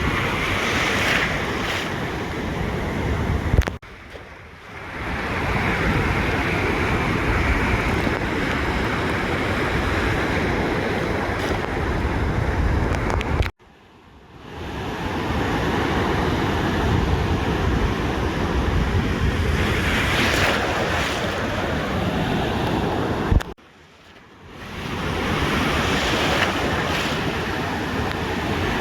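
Ocean surf washing onto a beach, a steady rushing with the low end heavy. The sound cuts out abruptly three times, about every ten seconds, and swells back in after a second or so each time.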